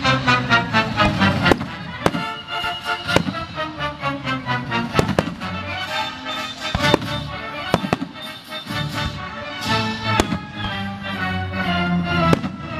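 Fireworks bursting, a sharp bang every second or two, over a live symphony orchestra playing.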